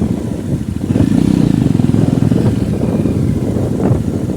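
Motorcycle engine running with a fast, even pulsing beat. It grows louder about a second in.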